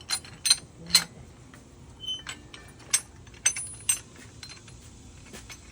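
Loose metal bolts and hardware being handled and set down, about eight sharp metallic clinks spread over a few seconds, some ringing briefly.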